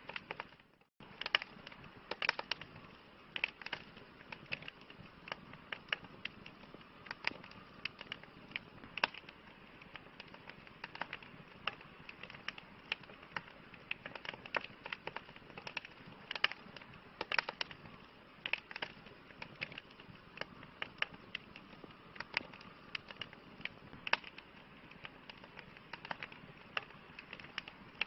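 Campfire burning, with irregular sharp crackles and pops of burning wood over a soft steady hiss. The sound drops out briefly just under a second in.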